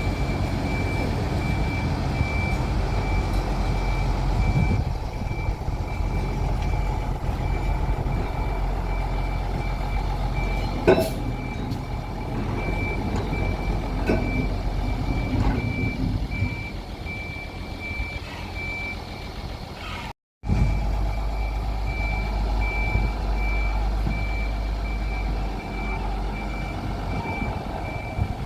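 A vehicle's warning beeper sounding a single high beep at even intervals, over the steady low rumble of a heavy vehicle running during a depot shunt. There is one sharp click about eleven seconds in, and the sound cuts out briefly about twenty seconds in.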